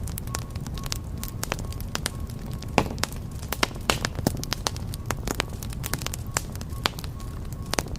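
Wood fire burning in a fireplace: a steady low rumble of flames with irregular sharp crackles and pops from the burning logs, a few louder snaps about three to four seconds in.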